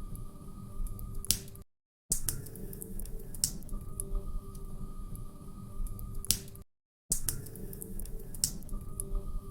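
Wood fire crackling in a fireplace: irregular sharp pops and snaps over a steady low rumble of burning. The sound cuts to dead silence briefly twice, about five seconds apart.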